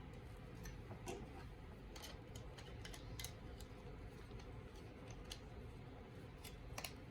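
Plastic snap-together model kit parts being handled and pushed together: irregular small clicks and taps, the loudest a quick pair near the end, over a faint steady hum.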